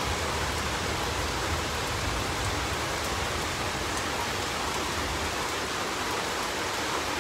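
Heavy, continuous monsoon downpour: an even, steady hiss of rain.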